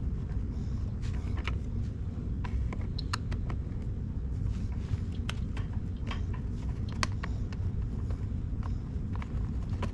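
Irregular light clicks and taps of hand tool work on car interior trim, a screwdriver on screws and plastic panel pieces, over a steady low hum.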